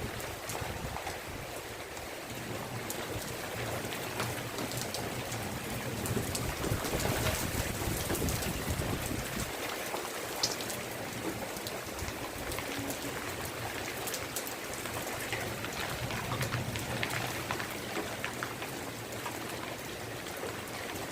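Steady rain falling, with individual drops ticking sharply. A low rumble underneath fades out about halfway through.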